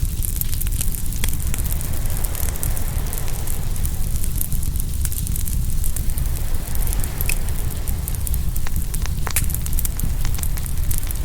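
Open wood fire crackling, with frequent sharp pops scattered irregularly throughout, over a steady low rumble of waves breaking on the shore.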